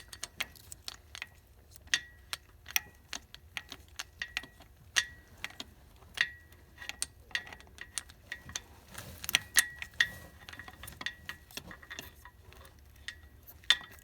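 Steel socket, universal joint and extension clicking and clinking against the engine and manifold while being fitted up onto a hidden manifold nut. The light metallic clicks come irregularly, a few of them ringing briefly.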